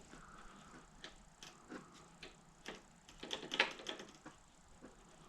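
Irregular light clicks and taps of small metal mower parts and hand tools being handled during carburetor reassembly, with a louder cluster of clatter about three and a half seconds in.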